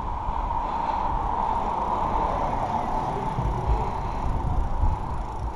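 Riding noise from a moving bicycle: wind buffeting the microphone in low gusts, with a steady mid-pitched whine.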